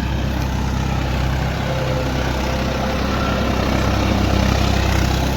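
Swaraj 744 XT tractor's diesel engine running steadily.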